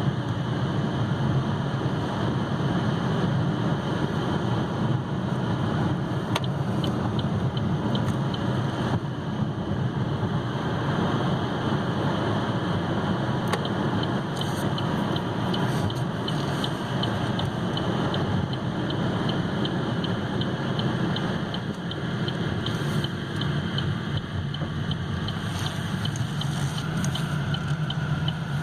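Steady road, tyre and engine noise heard inside the cabin of a 2015 Chevy Malibu cruising at highway speed.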